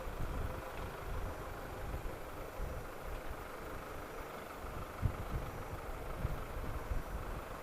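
Airliner jet engines running at a distance: a steady rushing noise with an uneven low rumble underneath.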